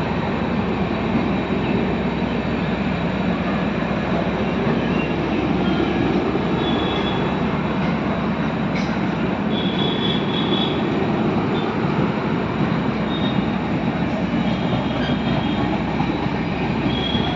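Train running steadily along the track, a continuous dense running noise, with short high-pitched wheel squeals every few seconds.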